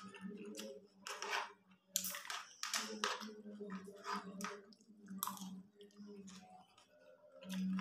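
Close chewing and crunching as a person eats rice and vegetables with a krupuk cracker, in several crisp bursts of crunching. Behind it, a steady chanted voice, the call to prayer from a mosque loudspeaker, grows louder near the end.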